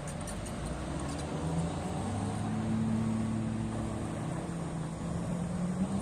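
Heavy earthmoving machine's diesel engine running steadily, its note stepping up about two seconds in and easing back down near the end.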